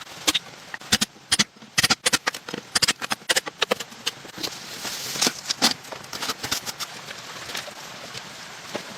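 A rapid, irregular run of sharp knocks and cracks from hand tool work. They come thickly in the first four seconds, then more sparsely.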